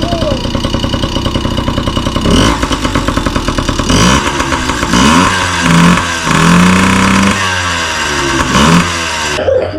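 Yamaha PW50's small two-stroke single-cylinder engine running, warming up, idling at first and then revved in about six throttle blips. It cuts off suddenly near the end.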